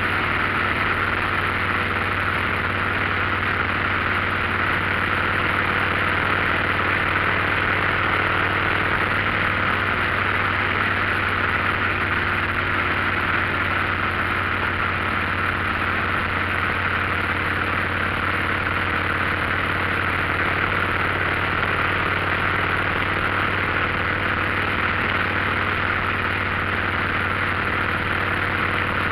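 Motorcycle engine running at a steady cruising speed, with the even rush of wind and road noise over it.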